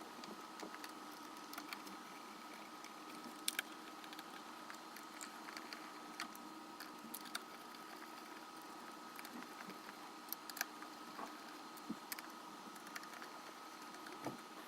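Faint, scattered clicks and light metallic taps of engine parts and hand tools being handled during engine bottom-end assembly, a few sharper ones standing out. There is a steady faint hum underneath.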